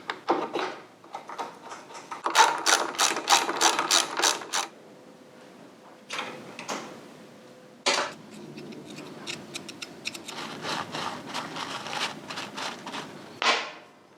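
Hand ratchet clicking in quick runs of strokes, with a few single metal knocks between.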